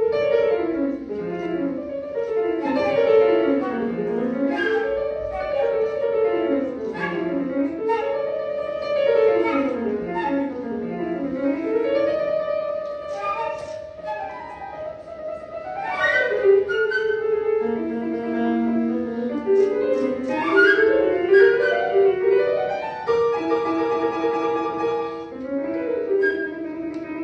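Flute and piano playing a contemporary classical piece. Quick runs sweep down and back up over and over. About halfway through a single note is held, and after that come fast rising runs and repeated chords.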